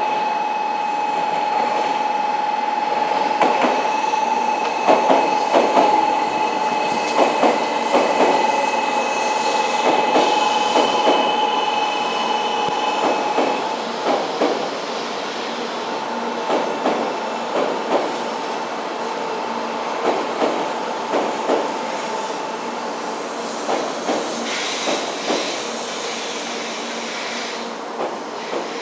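Hikari Rail Star Shinkansen train running, its wheels clacking in quick pairs over rail joints, with a steady high whine that drops out about halfway through and returns for a while.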